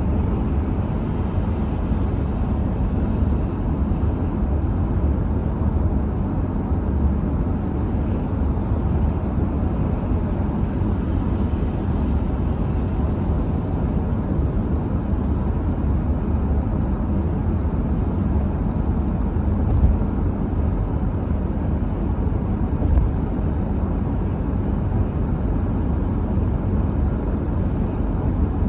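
Car driving at steady speed: a constant low rumble of road, tyres and engine, with two brief bumps about two-thirds of the way through.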